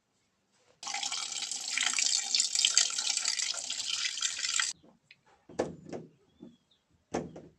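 Tap water running for about four seconds, starting and stopping abruptly, as the dirty filter mesh from a washing machine's water inlet valve is rinsed. A few short handling knocks follow near the end.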